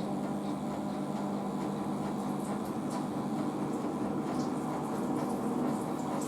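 Washing machine running between rinse and spin: a steady motor hum with a few fixed tones, with faint high clicks and splashes scattered through it.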